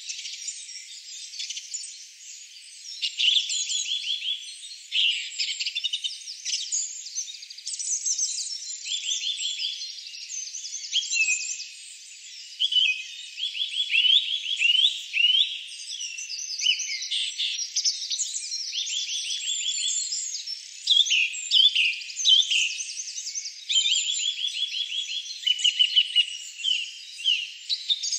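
Forest songbirds singing, with many overlapping chirps and quick trills of rapidly repeated notes, all high and thin with nothing in the low range.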